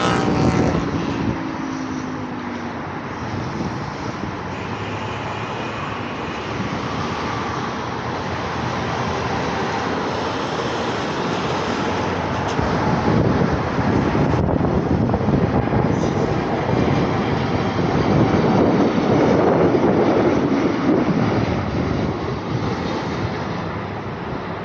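Jet roar of a landing Boeing 747-8 passing low overhead, mixed with road traffic. The roar builds steadily and is loudest about three quarters of the way through, with a falling engine tone near the start.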